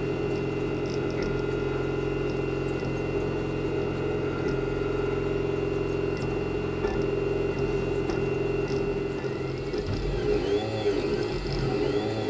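Leapfrog Creatr 3D printer running a print: a steady motor hum and whine whose pitch wavers as the print head moves, with quick rising-and-falling pitch sweeps near the end as the head speeds up and slows down.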